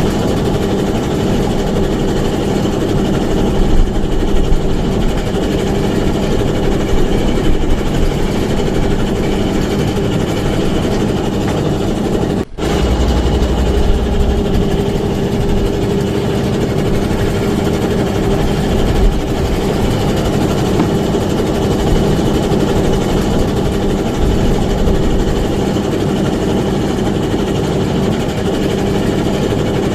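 Small fishing boat's engine running steadily with a low, even hum, breaking off for an instant about twelve and a half seconds in.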